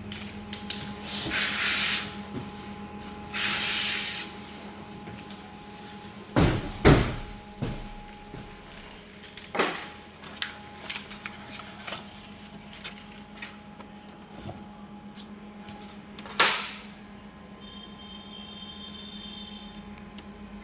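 Handling noises from unpacking a refrigerator. There are two long rustles, heavy thumps a few seconds later, then scattered knocks and clicks and one sharp knock, all over a faint steady hum.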